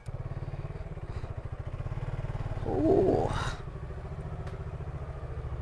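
Motorcycle engine running steadily at low revs, with a brief louder sound about three seconds in.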